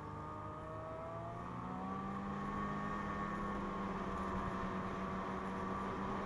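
2017 Ski-Doo MXZ 600 Carb Sport snowmobile's carbureted two-stroke engine under way. Its pitch rises between about one and two seconds in as the sled speeds up, then holds steady at cruising speed, growing slightly louder.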